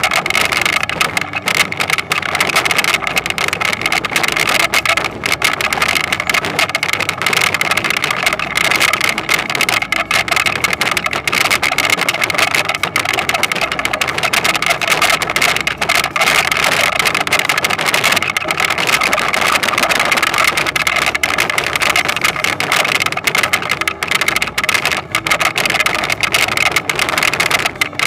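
Toyonoki potato harvester running steadily: engine noise overlaid with a continuous, fast clatter of the machinery.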